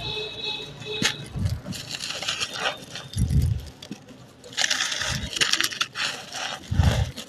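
Dry sand-cement texture being crumbled and crushed, with crunchy crackling and gritty crumbling in uneven bursts. A few dull low thumps fall in between.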